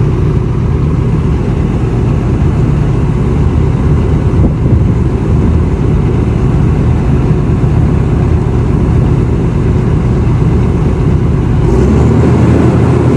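Engine of a heavy machine running steadily and loudly with a deep rumble; its note shifts about twelve seconds in.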